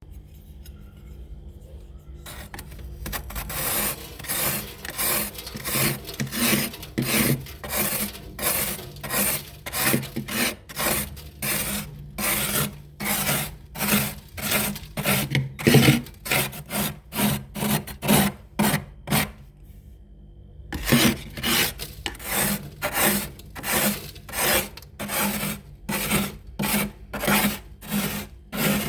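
Built-up frost and ice in a fridge freezer being scraped off in short, repeated rasping strokes, about two a second, with a brief pause about two-thirds of the way through.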